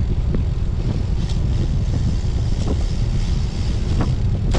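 Wind buffeting the microphone of a camera on a moving road bike: a steady low rumble, with a few faint clicks.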